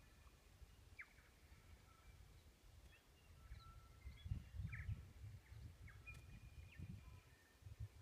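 Faint, scattered calls of forest birds: short notes and brief pitch glides from several birds. Underneath runs a low uneven rumble that swells in the middle.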